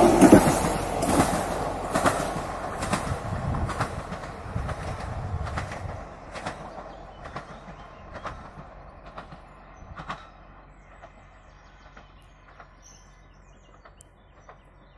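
SNCF TER passenger train pulling away after passing, its wheels clacking over the rail joints in a steady rhythm of about two clicks a second. It fades from loud to faint as it recedes.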